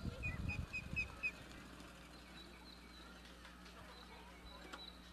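Horse's hoofbeats thudding on arena sand in the first second, over a small bird chirping: a quick run of five short chirps, then fainter, higher chirps.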